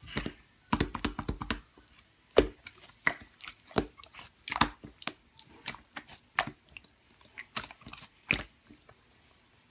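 Slime being squished and pressed by hand, making irregular sharp sticky pops and crackles, with a quick run of them about a second in.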